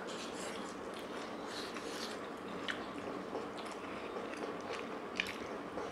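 Soft chewing and biting of steamed chicken momos, with a few faint, short wet smacks scattered through.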